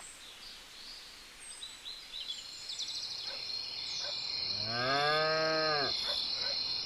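A cow moos once, a single drawn-out call about four and a half seconds in that rises slightly and then falls away. A steady high-pitched insect chirring, like crickets, runs underneath from about a third of the way in.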